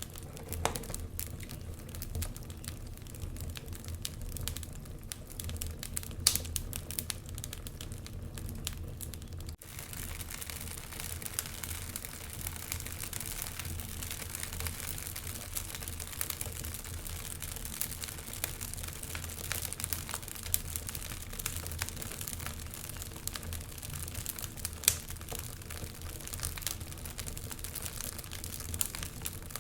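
Wood fire burning in a fireplace: continual light crackling and ticking over a steady low rumble, with a couple of sharper pops, one about six seconds in and one near twenty-five seconds.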